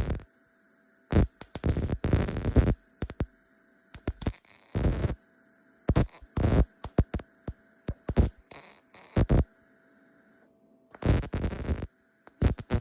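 Welding a washer onto a bolt: the welder is struck in a series of short bursts, each about a second long with brief pauses between, over a steady hum.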